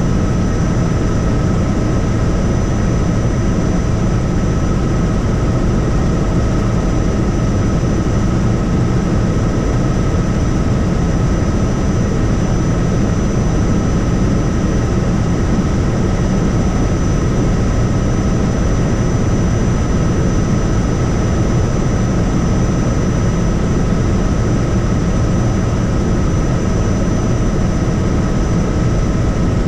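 Helicopter in flight: steady rotor and engine noise with a constant high whine running through it.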